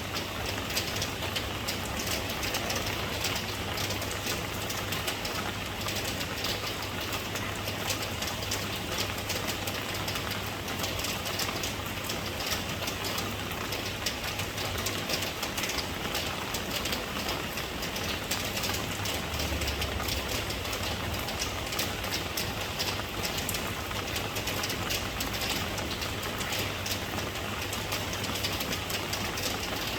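Steady rain falling, a constant even hiss with a dense patter of fine drops.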